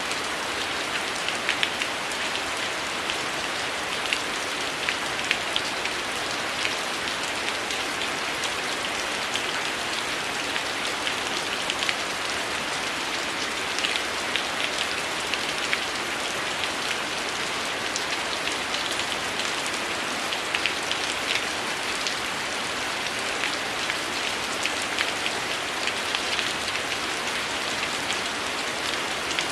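Heavy rain falling in a steady hiss, with frequent sharp, irregular crackles and pops from a wood fire scattered through it.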